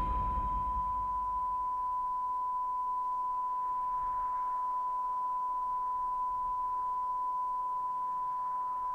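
Heart monitor flatlining: one unbroken high beep at a steady pitch, the sign that the patient's heart has stopped.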